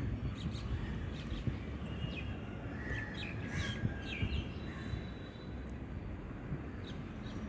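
Birds chirping in short, scattered calls over steady low outdoor background noise.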